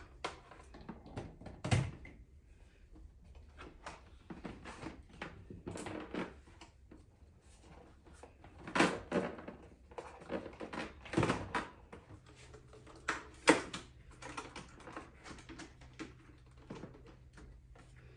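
Irregular clicks and knocks of hard plastic being handled as a robot vacuum and its self-emptying dock are set in place and plugged in. Louder knocks come about 2, 9, 11 and 13 seconds in. A faint steady hum starts a little past the middle.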